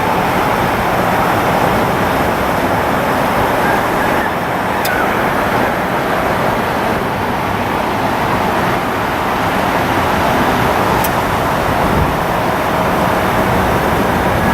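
Jet aircraft engines making a loud, steady rushing noise that holds at an even level throughout.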